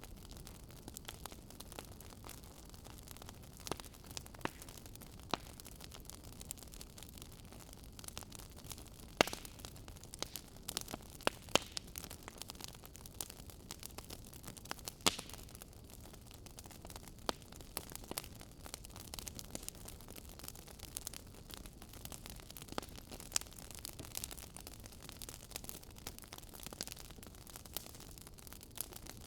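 Wood fire in a fireplace crackling: irregular sharp pops and snaps over a steady soft hiss, with a few louder pops scattered through.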